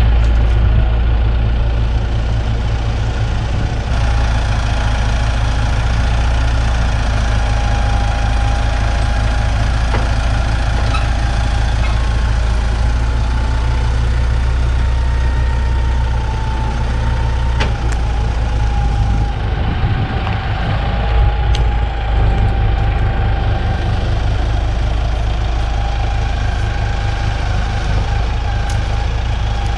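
A heavy engine running steadily at idle, with a deep, even rumble and a faint steady whine. A few brief knocks sound over it.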